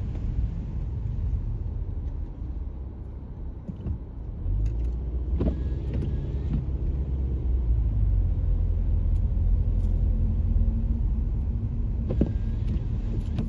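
Car driving, heard from inside the cabin: a steady low rumble of engine and road noise that grows louder about four and a half seconds in, with a couple of brief knocks.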